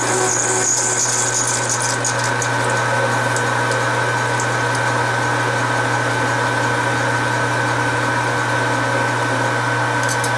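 Metal lathe running steadily while the cutting tool takes a light pass on a band saw knob, with a constant motor hum and a steady whine. The cut runs smoothly without chatter.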